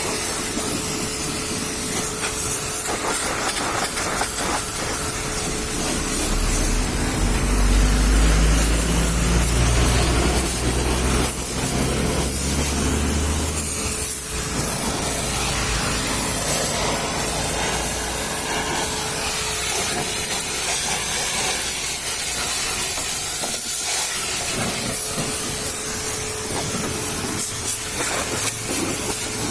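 High-pressure washer spraying water in a steady hiss, with a low rumble that sets in about six seconds in and fades out around thirteen seconds.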